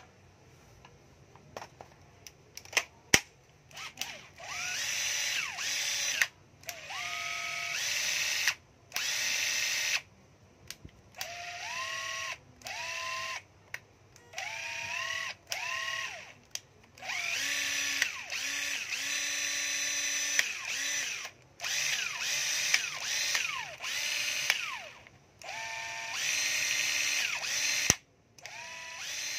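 Cordless 14.4 V two-speed drill/driver run in about a dozen short trigger pulls, the motor whining up to speed and holding for a second or two each time. A few clicks of handling come before the first run.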